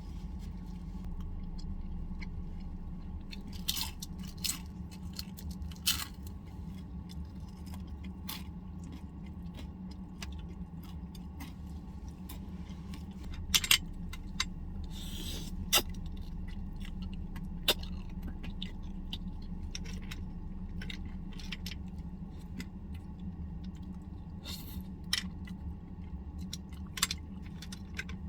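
Someone eating: soft chewing with scattered sharp clicks and taps of chopsticks or utensils against a dish, over a steady low hum.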